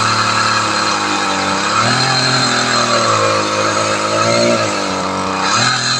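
Makita 40 cc two-stroke chainsaw running at high revs while cutting wood, its pitch sagging and recovering as the chain is loaded and eased, with a rise in pitch about two seconds in and again near the end.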